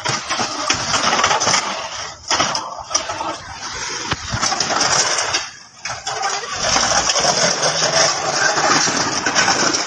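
A motor vehicle's engine and road noise, loud and steady, with a few short dips.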